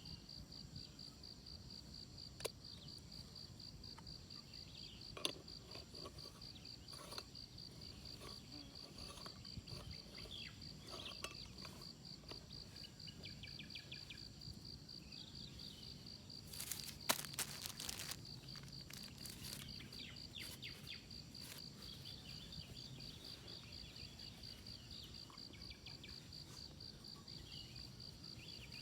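Crickets trilling steadily in a high, finely pulsing chorus, with a few scattered clicks and knocks and a short cluster of them about 17 seconds in.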